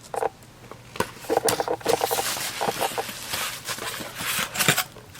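Packaging being handled: a dense run of crinkling and rustling from plastic or paper wrapping, starting about a second in and stopping just before the end.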